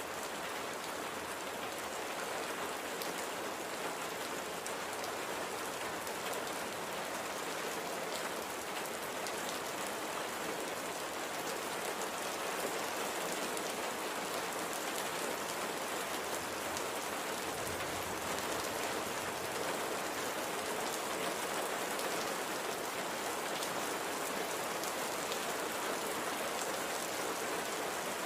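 Steady light rain falling on a surface, an even hiss with scattered faint drop ticks.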